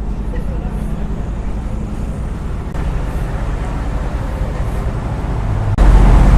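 A vehicle engine running steadily with a low drone, growing louder about six seconds in.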